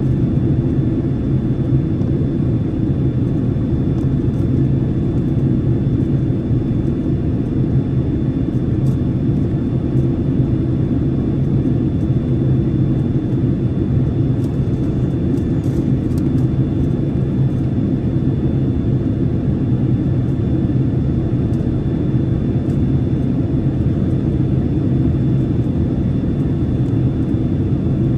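Airplane cabin noise in flight: a steady low rumble of engines and airflow, with a faint thin whine held at one high pitch throughout.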